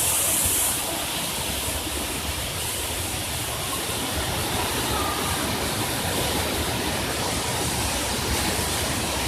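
Steady rushing water running without a break, its bright hiss easing slightly under a second in.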